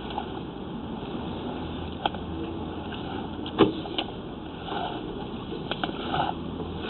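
Sewer inspection camera being pushed along a main sewer line: a steady rushing hiss with scattered clicks and knocks from the push cable and camera head, the loudest knock about three and a half seconds in.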